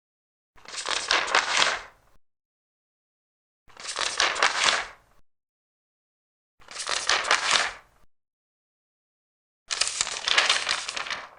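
Large paper pages being turned, four separate page turns about three seconds apart, each a rustle of a second and a half with silence between.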